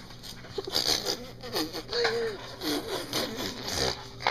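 A baby babbling in short high-pitched vocal sounds that bend up and down, with small mouth clicks between them.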